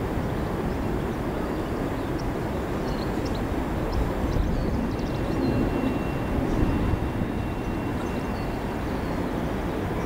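Electric passenger train running slowly over the curved tracks and points, a steady low rumble. A faint thin whistle holds for a few seconds in the middle.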